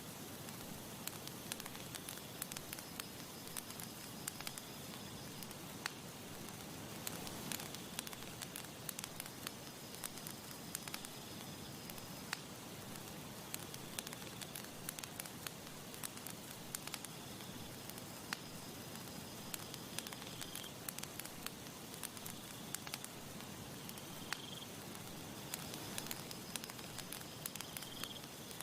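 Campfire burning, with a steady hiss and frequent sharp crackles and pops of burning wood. A faint high-pitched trill comes back every few seconds in the background.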